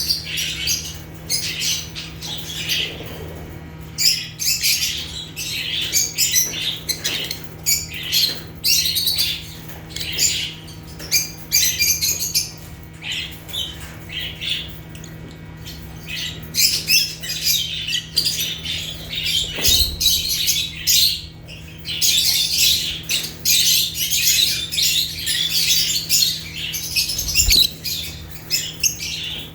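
Several lovebirds chattering: rapid, overlapping high chirps and squawks with hardly a pause, thinning briefly around the middle and growing busier again near the end.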